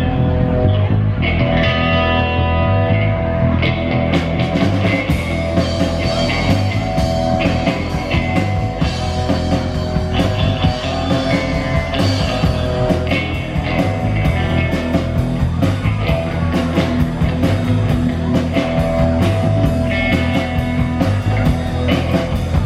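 Live rock band playing an instrumental passage: electric guitar over bass, with the drum kit and cymbals coming in about four seconds in.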